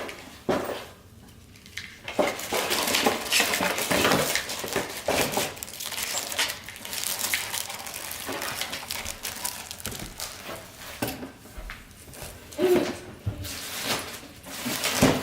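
Plastic robot-vacuum parts and packaging being handled and packed into a box: a busy run of clicks, clatter and rustling after a brief lull near the start.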